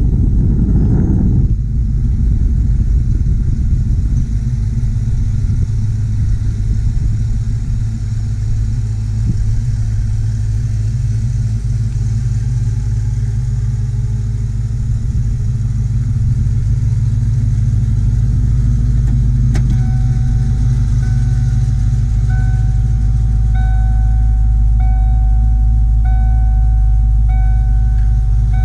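A 1995 Ford Mustang GT's 5.0-litre V8 idling steadily. About 20 seconds in there is a click, then the car's warning chime repeats about once a second over the engine.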